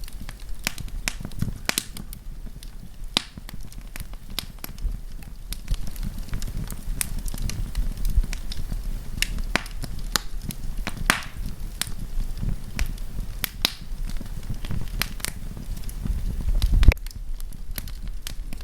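Wood campfire crackling, with frequent sharp pops and snaps at irregular intervals over a low rumble. The rumble swells and then cuts off suddenly near the end.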